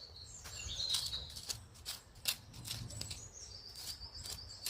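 A run of short sharp clicks and scrapes from a stick digging wild garlic out of hard soil, with songbirds singing high trills, one at about a second in and another from past the middle on.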